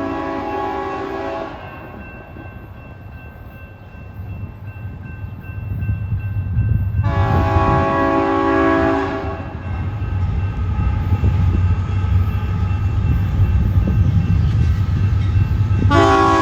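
Union Pacific locomotive's multi-chime air horn sounding a horn salute. One blast cuts off about a second and a half in, a second of about two seconds comes a little before the middle, and a third starts near the end. Between the blasts the low rumble of the approaching train grows louder.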